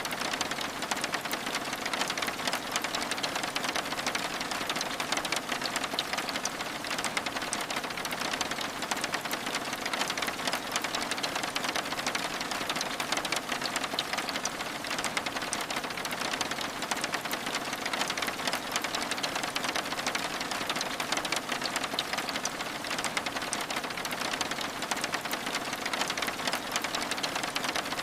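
Steady rain pattering on window glass: a constant hiss full of fast, fine ticks of drops.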